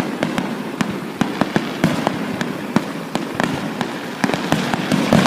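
Fireworks going off: a rapid, irregular string of bangs and crackling pops, several a second, over a continuous rumble.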